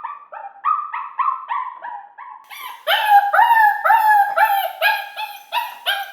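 Eight-week-old Pembroke Welsh corgi puppy yelping over and over in short, high calls, about three a second, each dipping slightly in pitch; the calls grow louder about two and a half seconds in.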